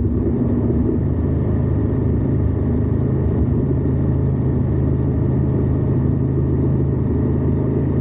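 Indian Scout's V-twin engine running steadily at an even cruise, heard close up from low on the motorcycle's crash bar as a constant low drone.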